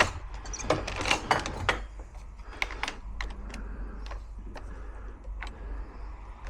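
Irregular sharp metallic clicks and taps of lock parts and tools being handled during reassembly, thickest in the first couple of seconds and more spaced out after.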